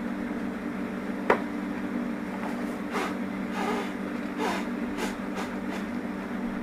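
Steady low hum of a large honeybee colony swarming around its opened nest. A single sharp knock comes about a second in, and a few brief scrapes or knocks follow midway.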